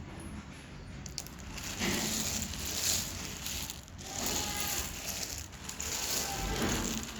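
Dry edible clay crunching and crumbling in several separate bouts of crackly crunches.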